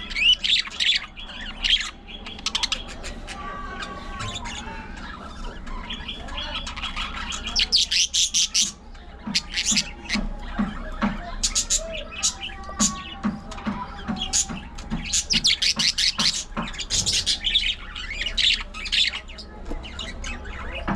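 Budgerigars chattering and warbling together, with bursts of sharp squawks.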